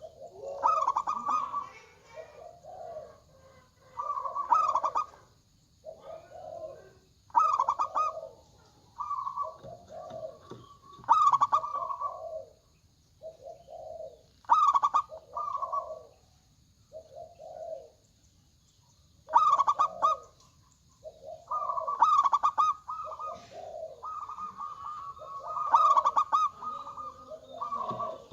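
Zebra doves (Indonesian local perkutut) cooing: repeated phrases of quick pulsing notes every couple of seconds, with more than one bird calling over another in places.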